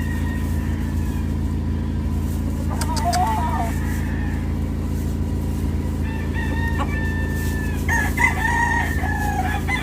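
Gamecock roosters crowing: a short call about three seconds in, then longer crows from about six seconds in, over a steady low hum.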